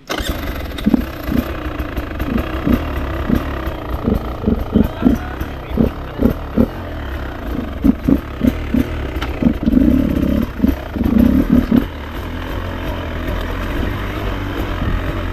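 Beta RR 300 two-stroke enduro motorcycle being ridden, its engine revving up and down in many short blips with a couple of longer pulls, over a steady low rumble.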